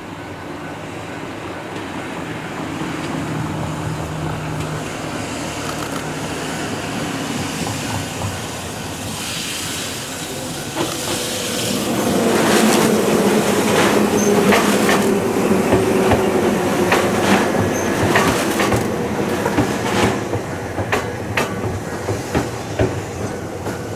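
Ohmi Railway 100-series electric train (set 101F) coming up and passing close by: the run builds to a loud rumble with a steady motor hum about halfway through. As it moves off, its wheels clack over the rail joints in evenly spaced pairs that grow fainter.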